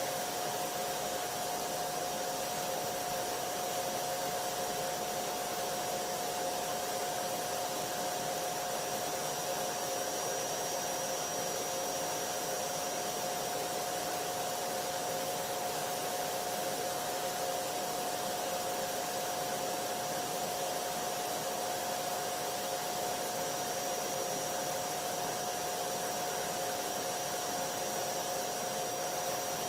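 Vacuum cleaner running steadily: an even rushing noise with a constant motor whine on top, with no change in speed or loudness.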